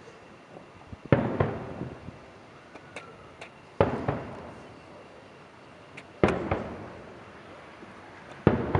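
Aerial firework shells bursting overhead: loud booms with long echoing tails, coming in pairs about every two and a half seconds, with a few sharp cracks between them.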